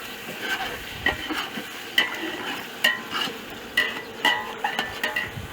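A metal utensil stirring food in a metal cooking pot, clinking against the pot with a short ring roughly once a second.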